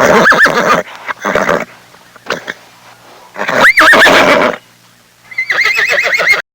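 Horse whinnying in four loud calls, the longest about halfway through, each with a quavering, trilling pitch.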